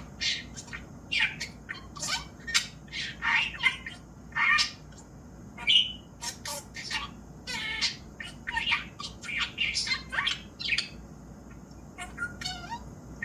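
Budgerigar chattering: a long, irregular run of short high chirps and squawks, several a second, with a brief pause near the end.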